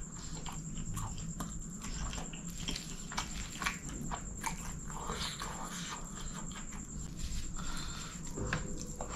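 Close-miked chewing of chicken kottu eaten by hand: wet, smacking mouth sounds with many small irregular clicks, along with fingers scooping through the food on its plastic wrapper.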